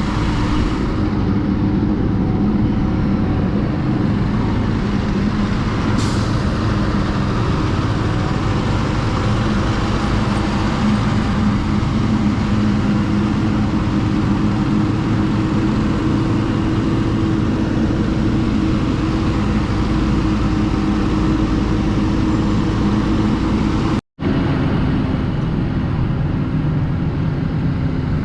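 Honda XR150's single-cylinder engine running steadily under way, with wind and road noise over it. The sound cuts out for a moment about 24 seconds in, then carries on the same.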